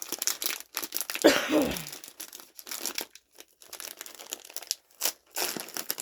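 A crinkly snack chip bag being torn open and rustled in the hands: a run of crackling crinkles, with one louder tearing burst about a second in.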